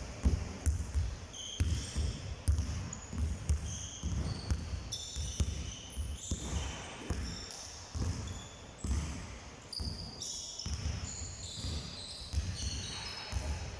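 Basketballs being dribbled on a hard court floor: repeated bouncing thumps, several a second, with short high squeaks scattered throughout.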